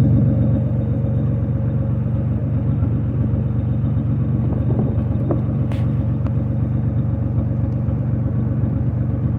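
Car engine running steadily with a rapid knocking from piston slap: the pistons rocking in worn cylinder bores. The knock is worse when the engine is cold.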